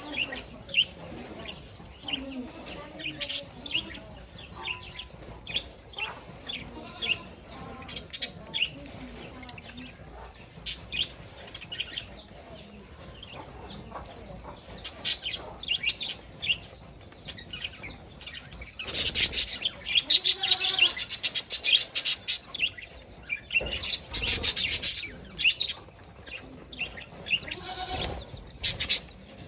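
Budgerigars chirping and chattering, with short high chirps throughout and two louder stretches of rapid warbling chatter about two-thirds of the way through.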